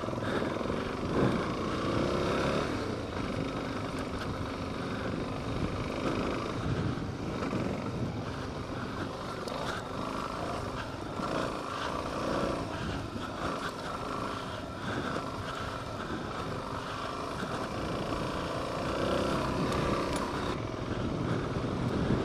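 Suzuki DR-Z400S single-cylinder four-stroke engine running steadily as the bike is ridden along a dirt trail.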